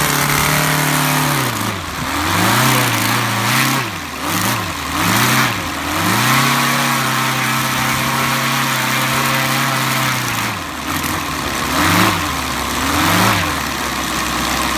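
Arien 7-cylinder model radial engine running on test, with its mixture set rich: it drops back to idle, is blipped up and down several times, is held at a higher speed for a few seconds, settles to idle, then gets two more short blips of the throttle.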